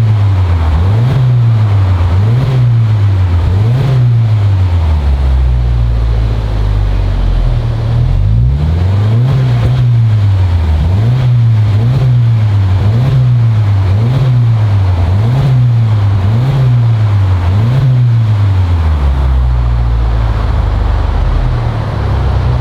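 Subaru Levorg VN5's turbocharged boxer engine breathing through a Fujitsubo Authorize-R aftermarket exhaust, revved in quick blips about once a second, each rising and falling in pitch. Between the runs of blips it settles to a steady, lower running note.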